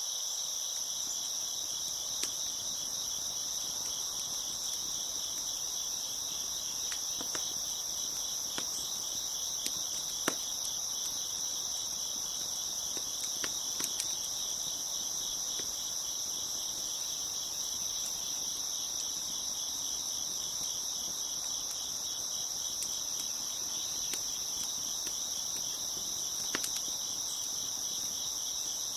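Dense chorus of crickets chirping steadily, with a few scattered sharp pops from a crackling wood fire, the loudest about ten seconds in.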